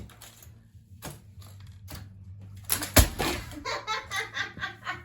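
Plastic model train set cracking and crunching under wedge-heeled shoes: a few small cracks, then one loud sharp crack about three seconds in. A woman laughs right after it.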